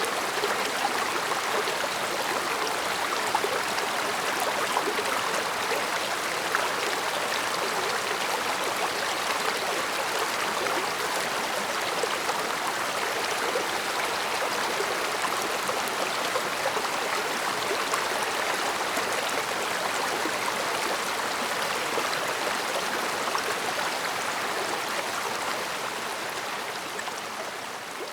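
Mountain stream flowing with a steady, soft murmur of running water, easing off slightly near the end.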